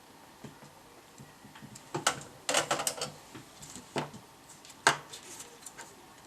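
Hard objects being handled during bench repair work: a quick run of sharp clicks and clacks about two seconds in, then single knocks around four and five seconds.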